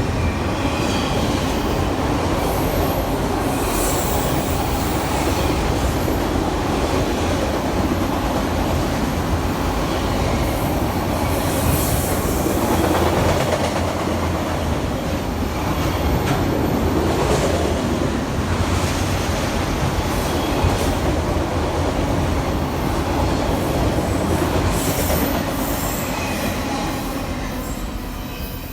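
Train rolling past: a steady rumble with a few brief high wheel squeals, easing off near the end.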